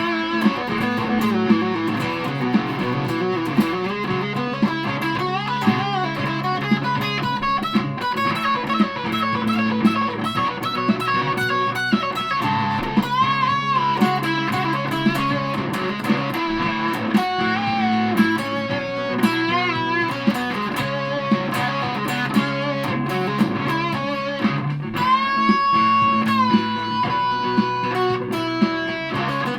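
Aria Pro II Thor Sound electric guitar played through a fuzz pedal: a fuzzed lead line in C sharp with sustained notes and string bends, ending on a long held bent note.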